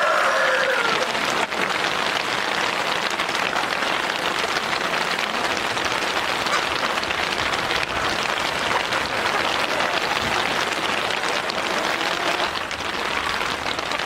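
Steady dense patter of rain. A rooster crow trails off in the first second.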